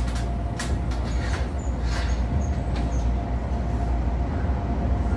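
Iyotetsu train running: a steady low rumble with a faint steady tone above it, and a few sharp clicks in the first three seconds.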